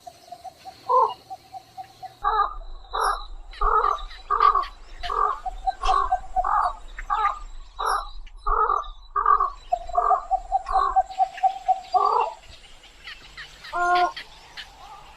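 Stork calls: a run of short harsh calls about two a second, with long drawn-out notes near the start and again about two-thirds through, and one more call near the end.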